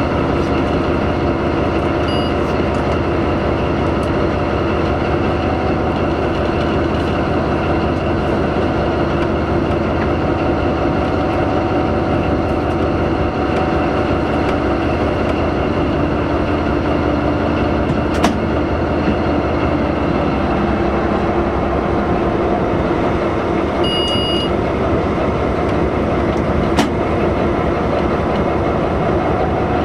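Locomotive running along the track, heard from inside the driver's cab: a steady, loud drive and wheel noise with several steady hums. Two sharp clicks come about 18 and 27 seconds in, and a short high beep about 24 seconds in.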